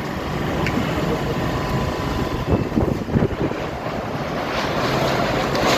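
Storm wind blowing hard and buffeting the microphone in a steady rush, with stronger gusts about halfway through.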